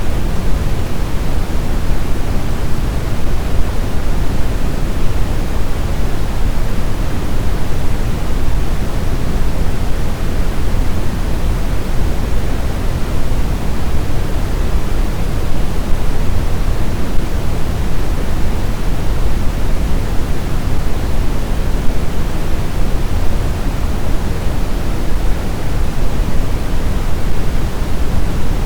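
Steady snowstorm wind noise: a dense, even rush, heaviest in the low end, with no whistling tones or separate gusts standing out.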